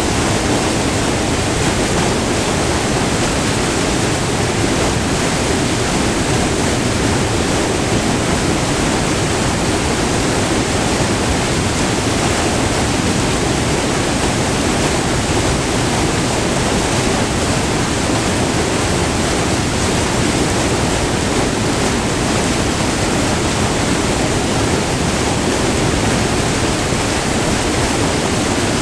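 Water rushing steadily over a short, multi-tiered river waterfall, recorded up close: an even, unbroken roar of white water.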